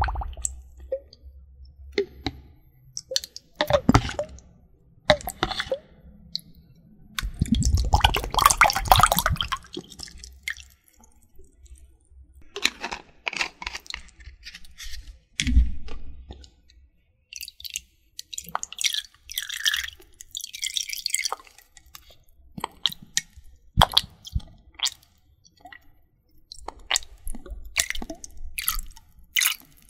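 Close-up wet squishing and small clicks from water-based ASMR trigger objects, with some dripping, coming in irregular bursts of a second or two.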